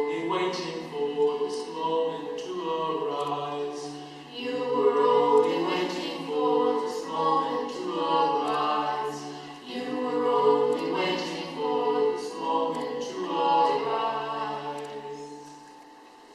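Voices singing a cappella, a slow melody over a steady held low note; the singing fades out near the end.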